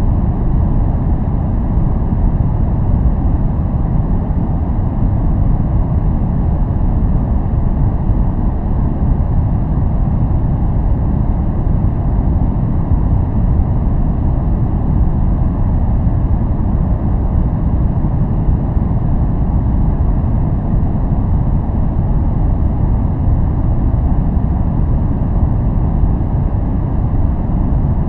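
Continuous noise track of the kind sold as white noise for focus, running without a break. It is a deep, rumbling hiss, heavy in the low end with little treble.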